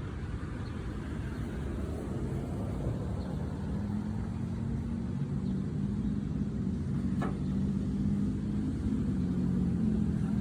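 A motor vehicle engine running, a low steady hum over a rumble that grows a little louder from about four seconds in. One sharp click about seven seconds in.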